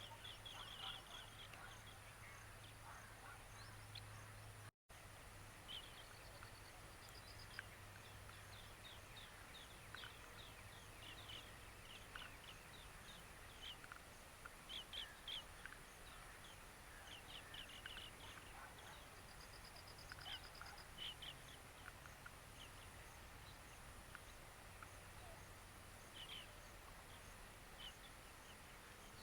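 Faint scattered bird chirps and a couple of short trills over a low steady hum.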